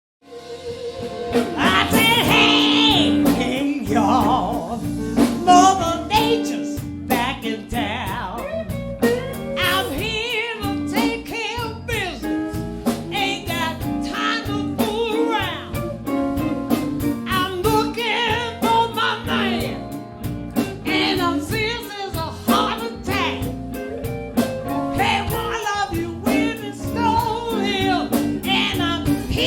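Live band playing a song with a lead singer over keyboards, drums, bass and guitar, fading in over the first second or two.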